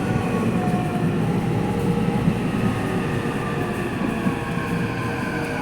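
Subway train running, heard from inside the car: a steady rumble from the wheels and track, with the electric traction motors whining in several steady tones.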